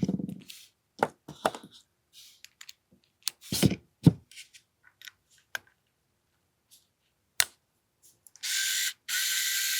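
Clicks and knocks of an AAP-01 airsoft pistol's parts being handled and worked apart during disassembly. Near the end, a loud, steady, high-pitched whirring starts, breaks off for a moment, then runs on.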